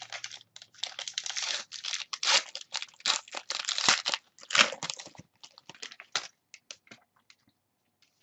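Plastic trading-card packaging being torn open and crinkled. The crackling is dense for about five seconds, then thins to scattered crinkles.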